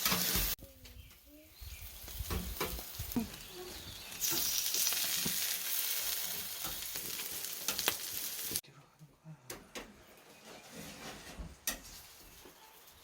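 Food sizzling on high heat, in stretches that cut off abruptly, with scattered light clicks and knocks of utensils in between.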